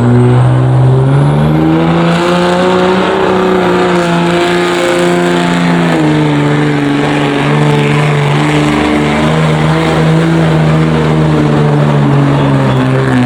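Pulling truck's engine at full throttle under heavy load, dragging the pulling sled down the track. The revs climb over the first two seconds, drop briefly about six seconds in, then hold high and steady.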